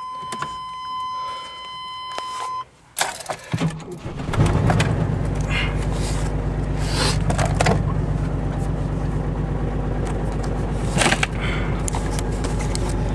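A steady high beep for about two and a half seconds, then clicks and a brief crank before the 1996 Chevy S-10 Blazer's 4.3 L V6 catches about four seconds in and settles into a steady cold-start idle. The uploader puts its running down to a bad injector spider and a bad muffler.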